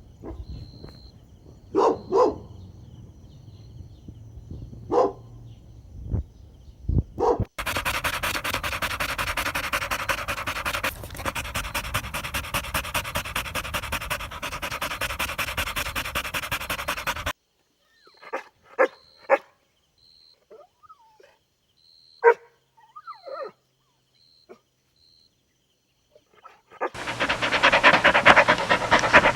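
A dog panting fast and hard for about ten seconds, with short barks and yips scattered before and after, and panting again near the end.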